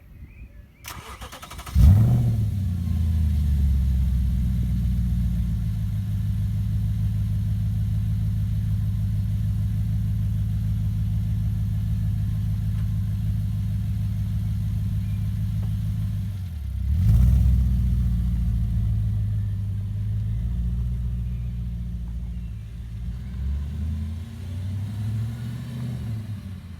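Audi RS4 B7's 4.2 V8 exhaust, with bypassed rear silencers, being started: a brief crank about a second in, the engine catching with a loud flare, then a steady idle. A short blip of the throttle comes about 17 seconds in, and the idle grows uneven near the end.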